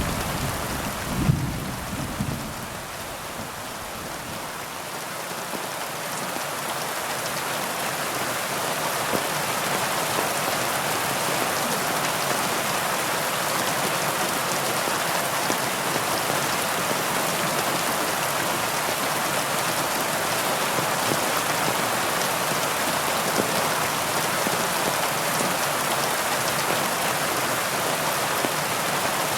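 Heavy rain falling steadily in an even, dense hiss. A low rumble of thunder dies away in the first two seconds, and the rain builds slightly over the next few seconds.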